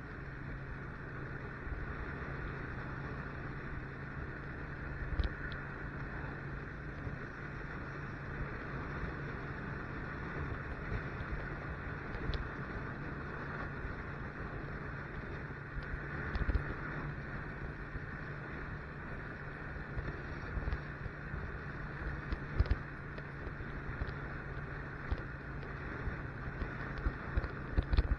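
Motorcycle engine running at a steady pace while riding, with wind buffeting the microphone in irregular low thumps.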